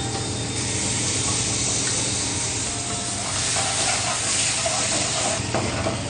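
Mushroom stuffing (mushrooms with chopped onion and garlic) frying in oil in a pan: a steady sizzle.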